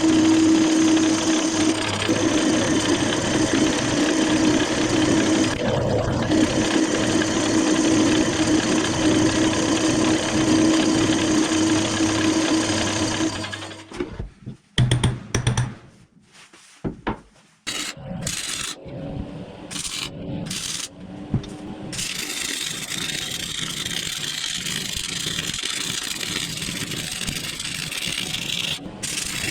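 A machine running steadily with a steady hum, breaking off about halfway into short bursts separated by sudden silences, then a different steady machine noise running on to the end.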